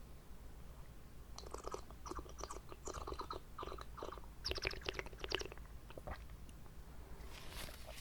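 Wet mouth sounds, quick runs of clicks and smacks made with the lips and tongue, from about a second and a half in to about five and a half seconds in.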